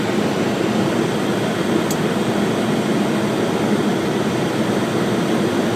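Steady rushing cockpit noise of a Boeing 737-800 on final approach: airflow over the airframe and the engines, with landing gear and flaps extended.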